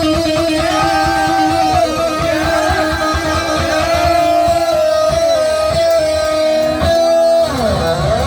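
Live heavy metal band playing loud, with an electric guitar holding long, bending notes over pounding drums; near the end the guitar pitches slide downward.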